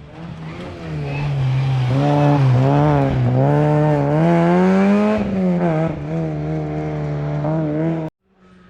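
Rally car engine working hard on a special stage, its pitch swinging up and down with throttle and gear changes, climbing to its highest about five seconds in and then falling away. The sound cuts off abruptly just after eight seconds.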